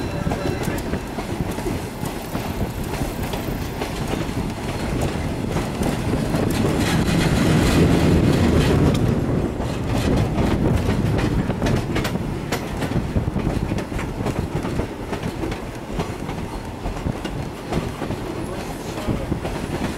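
Train rolling along at speed, heard from an open car: a steady rumble with wheels clicking over the rail joints. It grows louder for a couple of seconds about a third of the way in.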